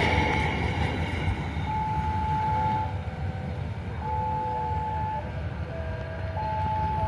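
A passing train's rumble, easing off as it moves away, with brief high steady whining tones coming and going every couple of seconds.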